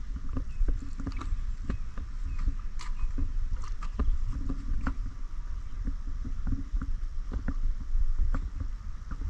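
A canoe being paddled: water sounds from the paddle with many irregular sharp knocks, over a steady low rumble.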